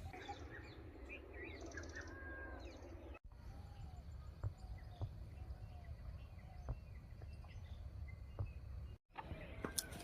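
Faint birds chirping over a low outdoor rumble, with two very brief dropouts in the sound: one about three seconds in and one near the end.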